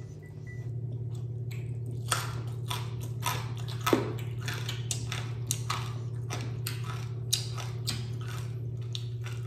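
Close-up mouth sounds of crispy fried chicken skin being chewed: a run of irregular crisp crunches that starts about a second and a half in, over a steady low hum.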